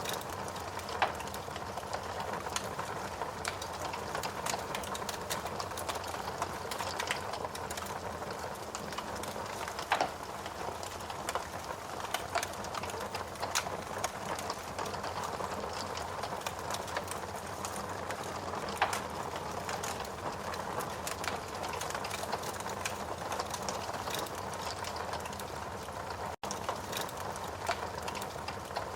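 Wood fire crackling in a fireplace: a steady hiss with frequent sharp pops and snaps, a few louder ones scattered through. The sound breaks off for a split second near the end.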